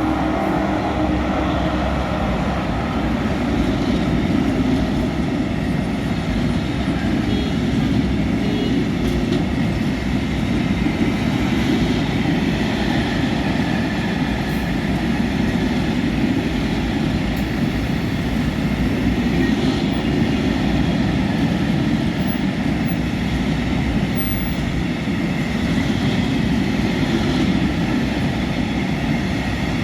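Train running past, a steady rumble.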